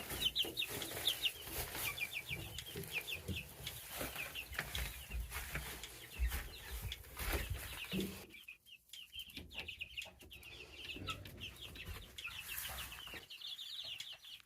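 A brood of baby chicks peeping: a steady stream of short, high, falling peeps from several birds at once, with low rustling and knocks in the first half.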